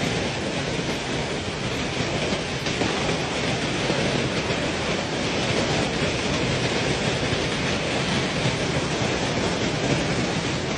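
Heavy storm rain pouring steadily, a dense, even rush with no let-up.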